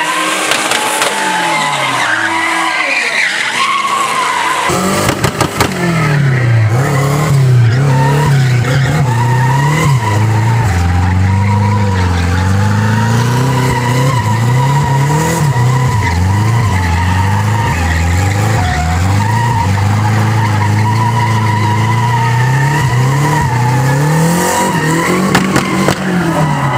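Chevrolet Chevette drift car's engine revving hard, its pitch swinging up and down over and over as the rear tyres spin and screech in a burnout and donuts. It gets louder from about five seconds in.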